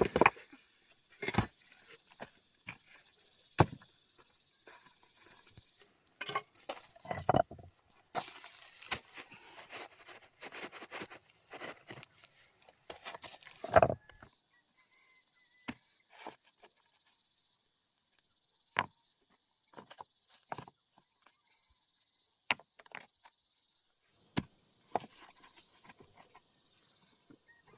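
Irregular knocks and clatters of hand work, busiest in the first half and sparser later, over a faint steady high chirring like insects.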